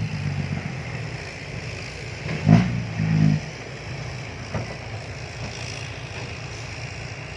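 Diesel dump truck engine running steadily, with a brief louder burst of revving about two and a half seconds in.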